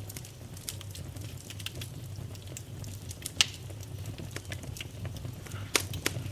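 Wood fire crackling over a low steady rumble, with scattered small snaps and a few sharper pops, the loudest about three and a half seconds in and two more near the end.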